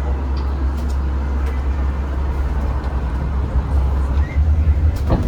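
Zhongtong hybrid range-extender city bus running, heard from inside as a steady low drone, with a couple of sharp clicks near the end.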